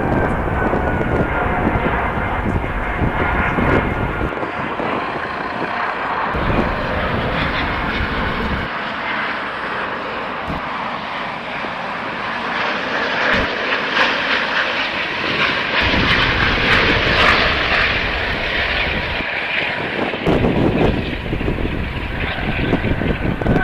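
Jet airliner engines passing at the airport: a rushing noise with a faint high whine, strongest in the middle. Wind buffets the microphone near the start and again toward the end.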